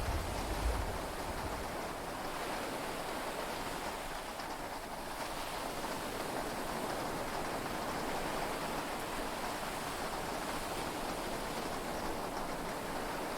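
Steady rain and sea-wave noise heard from inside a yacht's cabin during a storm at sea, with a low thunder rumble dying away in the first second.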